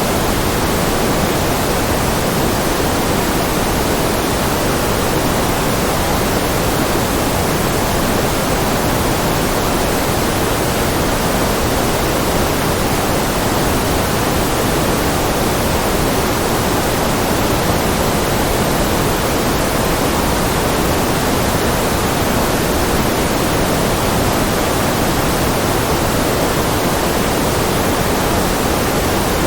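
Steady generated white noise: an even, unbroken hiss that never changes, fuller in the lower and middle pitches than in the highs.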